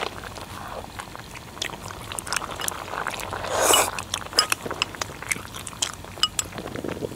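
Close-up eating sounds: chewing and wet mouth clicks on a piece of hotpot duck, with scattered light clinks and a short, louder noisy smack a little past halfway.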